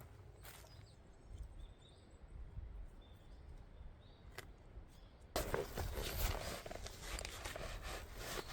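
Footsteps crunching and rustling on the winter forest floor, starting suddenly about five seconds in after a quiet stretch with only faint scattered ticks.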